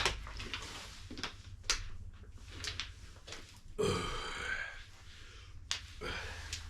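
A short vocal sound from a person, like a burp, about four seconds in, among several sharp clicks.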